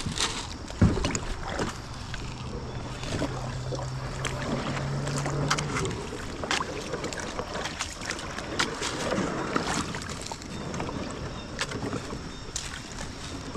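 Water splashing with repeated knocks and scrapes as a kayak and paddle are worked through a shallow, rocky creek. A steady low hum is heard from about a second in until about six seconds.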